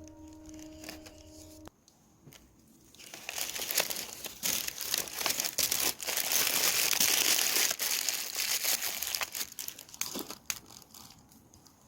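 Close crinkling and crumpling, a dense run of crackles that builds about three seconds in, is loudest in the middle and tails off near the end.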